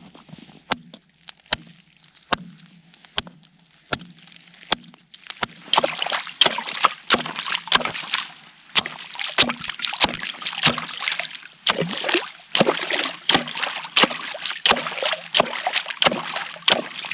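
Repeated strikes chopping a hole in lake ice for ice fishing: lighter blows about every 0.8 s, then from about six seconds in harder, faster blows, about two a second, with a rough crunching of broken ice between them.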